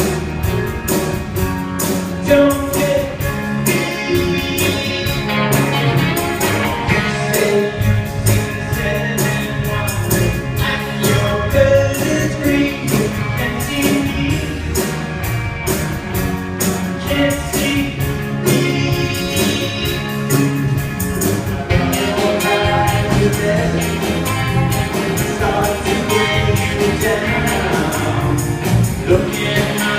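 A song sung over band accompaniment with a steady percussive beat.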